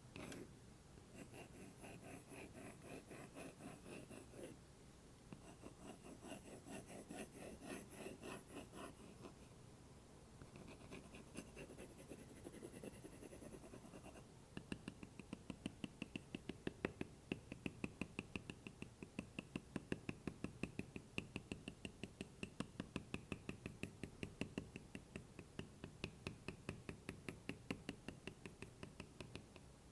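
An Apple Pencil worked on a wooden block as an ASMR trigger: fast, even scratching strokes, then about halfway through a steady run of light taps, about three a second.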